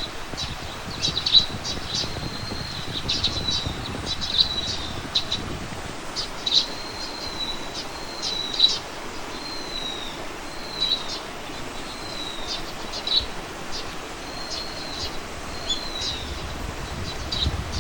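Wild birds chirping and calling repeatedly: short high notes and brief whistled glides, over a steady background hiss.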